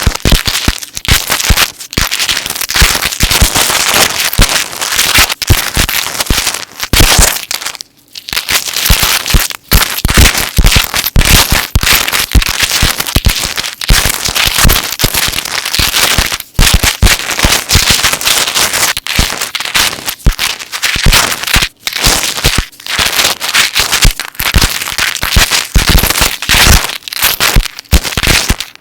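Metal chain necklaces handled and shaken close to the microphone: a dense, continuous run of clinking and jingling, with a brief pause about eight seconds in.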